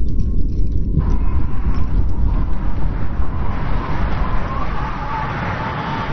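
Strong wind blowing in a snowstorm: a deep, fluttering rumble with a thin, wavering whistle that comes in about a second in and is strongest a little past the middle.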